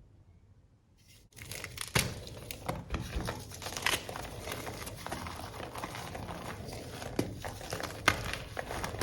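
A block of reformed gym chalk being crushed, crumbling and crunching continuously with many sharp cracks. It starts about a second in after near quiet.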